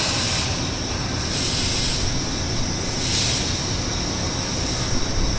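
Electric commuter train running through the station, its rail noise mixed with strong wind buffeting the microphone as a low rumble and surging hiss.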